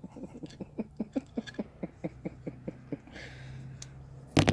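A man's breathy laugh, a run of short pitched chuckles at about four or five a second that die away over about three seconds. A short loud noise comes right at the end.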